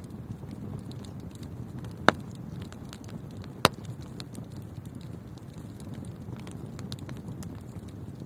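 Wood fire burning in a fireplace: a steady low rush with many small crackles, and two loud sharp pops about two and three and a half seconds in.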